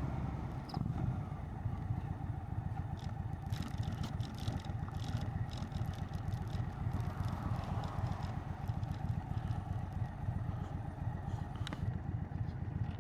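Indian Chieftain's Thunder Stroke V-twin idling with a steady, fast low pulse through a Freedom Performance exhaust. Rustling and clicking handling noises come a few seconds in, and there is one sharp click near the end.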